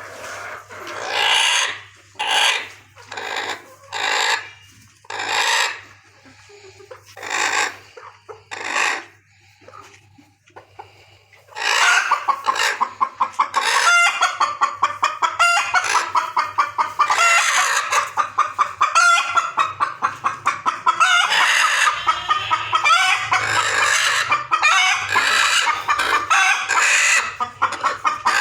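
Chickens calling: a handful of separate calls a second or two apart, then from about twelve seconds in a dense chorus of many birds clucking and calling over one another.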